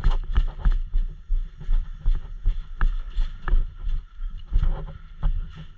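Irregular heavy thumps, about two or three a second, mixed with sharp clicks: a player moving fast on foot, each step jolting the worn camera and rattling gear.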